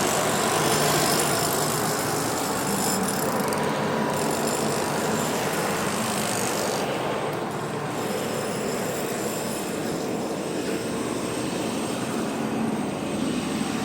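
Steady drone of running machinery, with a constant hum and a hiss over it.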